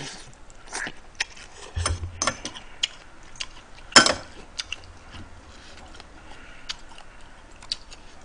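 Close-miked mouth sounds of someone eating instant-noodle seafood jjamppong: wet chewing with scattered lip smacks and clicks, one louder click about four seconds in.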